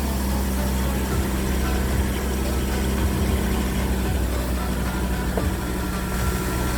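Steady low rumble of a running engine, with a steady low hum and no change in speed.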